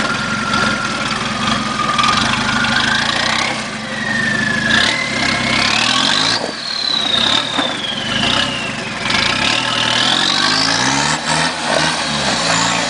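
Off-road 4x4's engine revving up and down over and over as it crawls over rocks, with a high whine that rises and falls with the revs several times.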